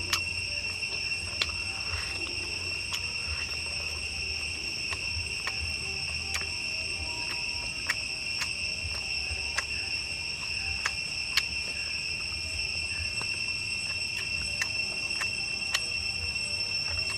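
Insects trilling in one steady, unbroken high drone, with sharp clicks or snaps scattered through it about once a second.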